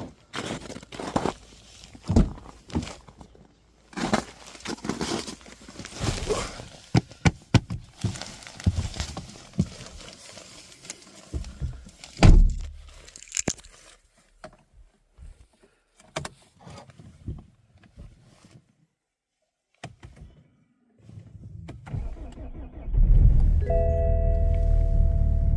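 A run of sharp clicks, crunches and rattles, keys jangling among them, then a pause. Near the end the BMW 520d's M47 four-cylinder turbodiesel starts from cold at −10 °C and settles into a steady low rumble.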